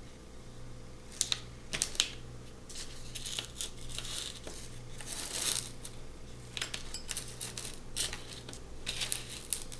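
Small parts of a diecast toy car being handled on a work surface: irregular light clicks and clinks, a few sharper knocks, and some rustling.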